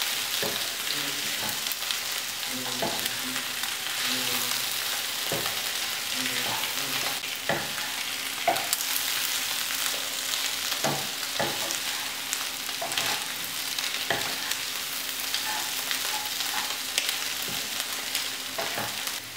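Beef sizzling in coconut oil in a nonstick kadai while a wooden spatula stirs it, with irregular scrapes and knocks against the pan every second or two. The beef is at the dry-frying stage, nearly done.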